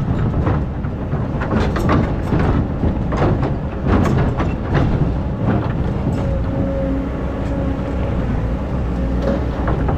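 Excavator engine running under load, with repeated scraping and knocking as the bucket works into hard-packed old sand. A steady whine sets in about six seconds in.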